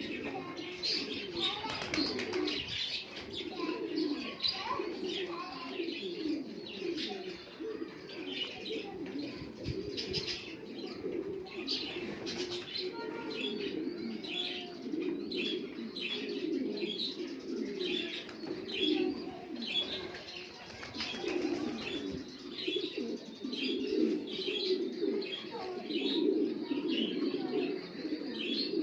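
A flock of domestic pigeons cooing continuously in a loft, many birds overlapping, with frequent short high chirps over the cooing.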